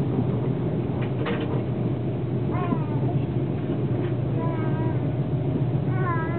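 Steady low rumble of a passenger train running, heard inside the carriage, with a couple of knocks about a second in. Three short, high, wavering calls stand out above the rumble.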